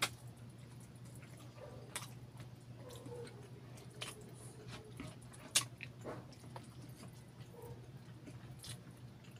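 Close-up eating sounds of saucy chicken barbecue: chewing and biting with wet, sticky mouth noises, and sharp smacks every second or two, the loudest a little past the middle. A low steady hum runs underneath.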